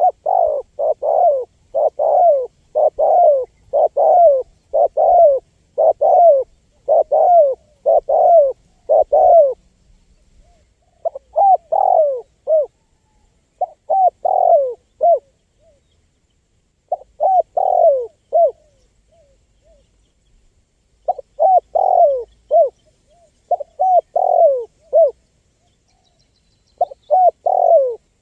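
Spotted dove (tekukur) cooing: a steady run of coos about once a second for the first ten seconds, then short phrases of three or four coos with pauses between.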